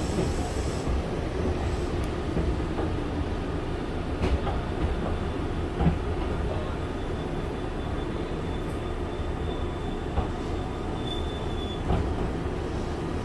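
Meitetsu 5000 series electric train heard from inside the carriage while running: a steady rumble of wheels on rail with a few knocks from rail joints and a faint high whine in the middle.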